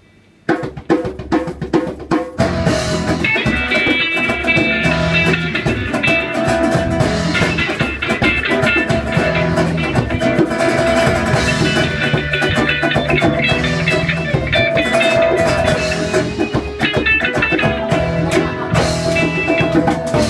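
Live band starting a song's instrumental intro: sharp drum hits begin about half a second in, then the full band with guitar and drums comes in about two seconds later and plays on steadily.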